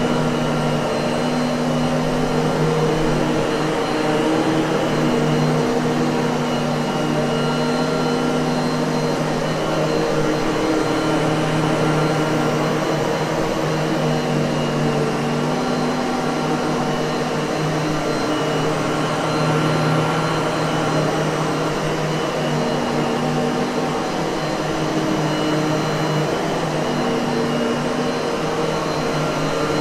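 Miele vacuum cleaner running steadily: a continuous rush of air under a motor hum whose tones swell and fade slightly.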